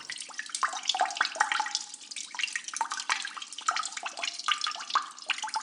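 Running water trickling and splashing, full of quick little drips and plinks.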